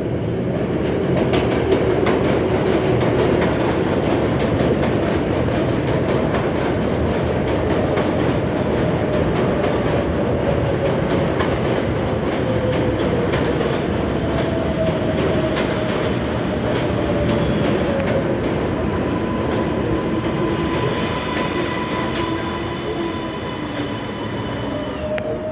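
A New York City subway 7 train, an R188, pulling into the station and slowing. It runs with a loud, steady rumble and wheel clatter, a whine that falls slowly in pitch as it decelerates, and high squealing tones near the end as it comes to a stop.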